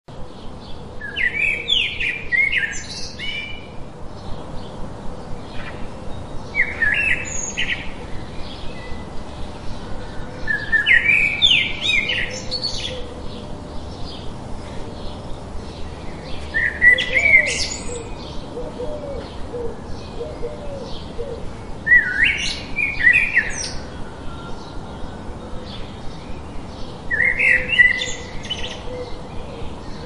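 Birds singing: a high, warbling phrase about every five seconds, with a steady run of short chirps in between.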